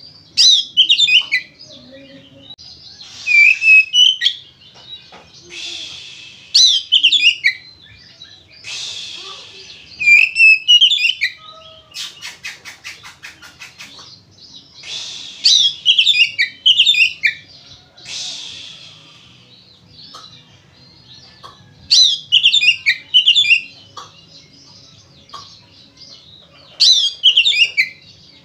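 Oriental magpie-robin (kacer) singing loudly in repeated bursts of rapid, sharply gliding whistled notes every few seconds, mixed with short harsh rasps and, about twelve seconds in, a fast rattle.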